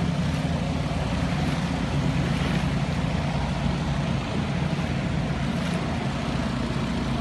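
An engine running steadily at an even speed, a constant low hum with a haze of noise over it.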